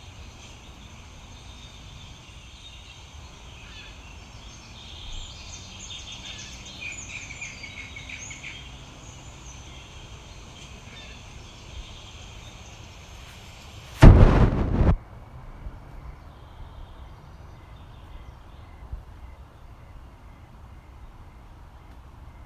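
Woodland ambience of birds chirping over a steady background of insects, broken about two thirds of the way through by a loud blast about a second long that covers every pitch.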